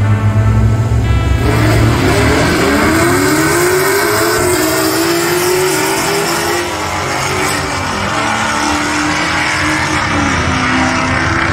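Two Chevrolet Camaros launching off the line at a drag strip and accelerating hard down the track. Their engines climb in pitch, drop back at each upshift and climb again, several times over, as the cars pull away.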